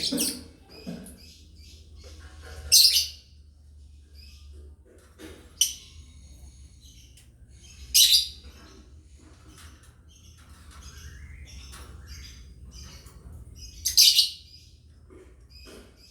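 Lovebirds chirping in a busy stream of short high chirps, with three loud sharp calls standing out about five seconds apart.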